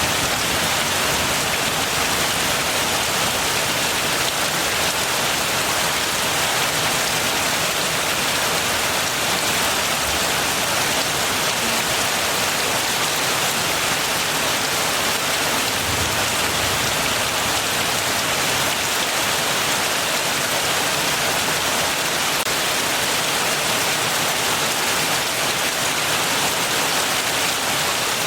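Heavy rain falling steadily on surfaces, an even hiss without a break.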